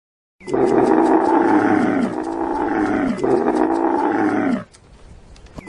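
Camel bellowing: drawn-out, throaty groaning calls that fall in pitch, three in a row, then a short pause before another begins at the end.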